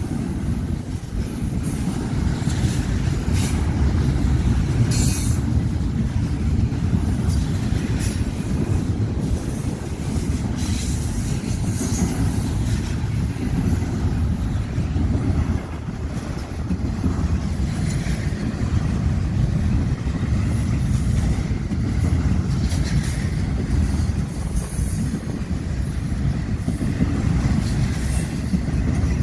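Union Pacific freight train cars rolling past with a steady low rumble of wheels on rail, and brief high-pitched wheel squeals every few seconds.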